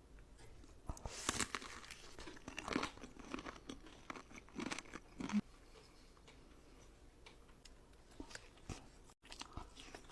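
Close-miked eating: crunchy bites and chewing of fried breaded chicken, in irregular clusters of crackly bites.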